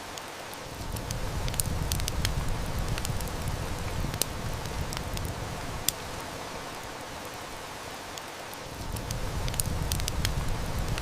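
Steady heavy rain hiss with a wood fire crackling and snapping in sharp, scattered pops. A low rumble swells in about a second in, eases off around the middle, and returns near the end.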